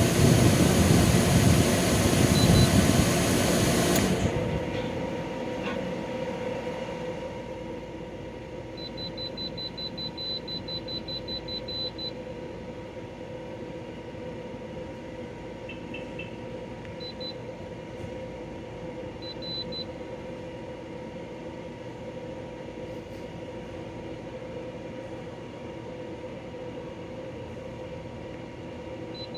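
Portable air conditioner running with a steady hum. A loud rushing noise cuts off abruptly about four seconds in. A quick run of short high electronic beeps comes a few seconds later, followed by a few single beeps.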